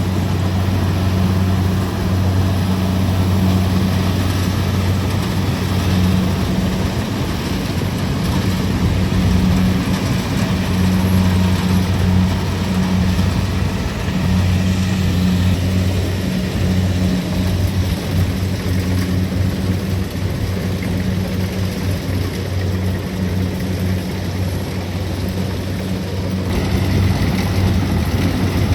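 Kubota DC-70 Plus combine harvester's diesel engine running steadily under load, with the whirring clatter of the threshing machinery, while cutting rice.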